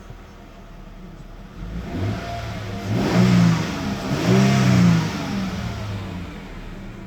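Mercedes-Benz W163 ML350 V6 engine idling, then revved twice, its pitch climbing and falling back each time, before it settles to idle again.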